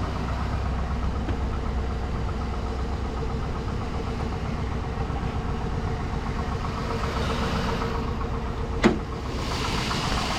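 2006 GMC Sierra's 5.3-litre LS V8 idling steadily, just started. About nine seconds in there is one sharp, loud clack.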